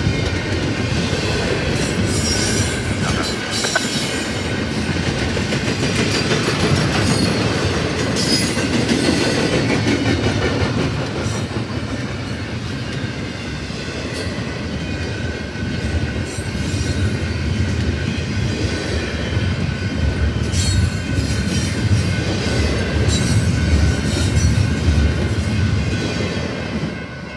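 A train rolling past, its steel wheels running and clattering over the rails with some high wheel squeal and occasional clanks. The sound falls away just before the end.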